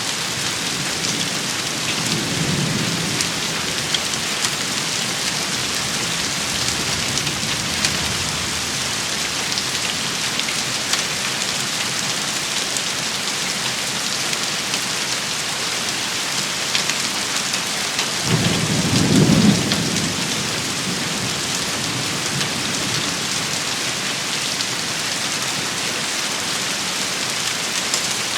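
Steady rain shower pattering densely, with a faint low rumble of thunder a couple of seconds in and a stronger rumble about two-thirds of the way through.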